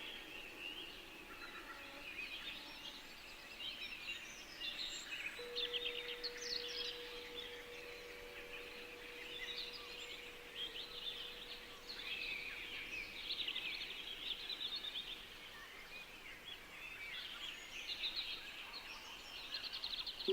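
Songbirds chirping and trilling, many overlapping short calls, with a faint steady tone held for several seconds in the middle.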